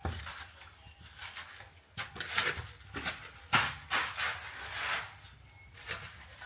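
A person breathing hard, out of breath from climbing steep stairs: several long, noisy breaths in the middle of the stretch.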